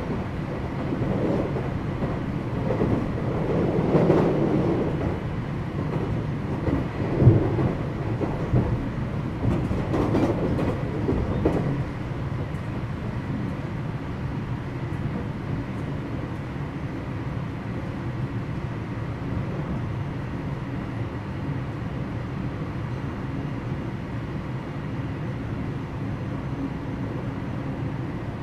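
Interior running sound of a JR West 227 series electric train in motion, recorded in the KuMoHa 227 motor car: a continuous rumble of wheels on rail. Uneven for the first dozen seconds, with a few sharp knocks, then settling into an even rumble.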